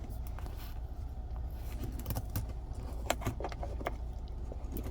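Light clicks and rattles from handling the tyre inflator's 12 V power plug and cable, over a steady low rumble.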